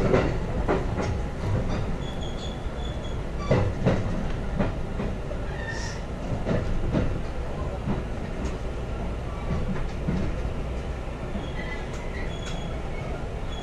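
JR West 223 series electric train running into a station, heard from inside the carriage: a steady rumble with wheels knocking over rail joints, the knocks spaced out over the first few seconds, and a few thin high whines.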